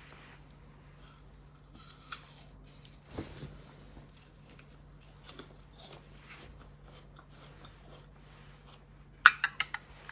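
Small objects being handled, with scattered light knocks and clicks, then a quick run of about five sharp clicks or taps a little after nine seconds in, the loudest sound.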